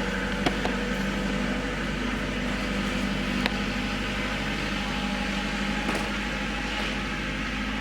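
Engine idling steadily at an even speed, with a few faint knocks.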